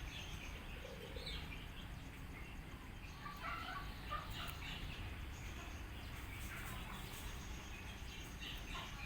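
Birds chirping in short, scattered calls, a few together about three to five seconds in and again near the end, over a steady low outdoor rumble.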